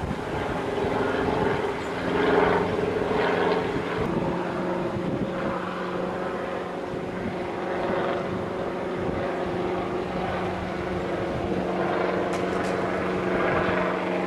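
A steady motor drone holding several pitches that shift slightly about four seconds in and again near the end.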